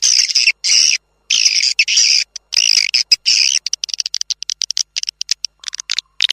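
Swiftlet lure recording: swiftlets' chattering twitter calls in bursts of about half a second, broken by gaps of complete silence, turning into quicker, shorter chirps from about halfway. It is the call track played from a swiftlet house to attract swiftlets to roost and nest.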